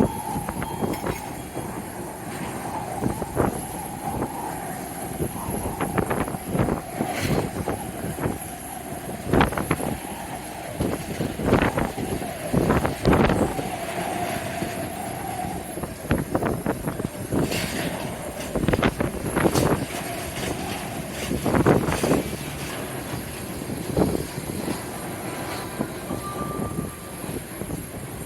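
Jet airliner engines running with a steady whine, while strong gusts of wind buffet the microphone in irregular blasts.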